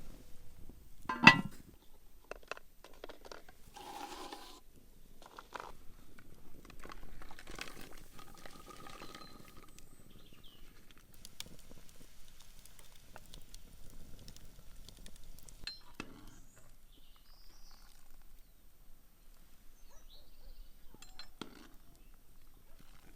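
Cutlery and dishes clinking and knocking, with one sharp, loud knock about a second in and lighter clinks and handling noises scattered after it.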